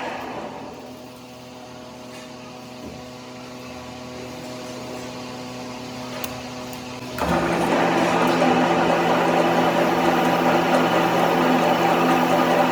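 An electric workshop machine humming. It drops to a quieter steady hum in the first second, then about seven seconds in a machine starts abruptly and runs loudly and steadily.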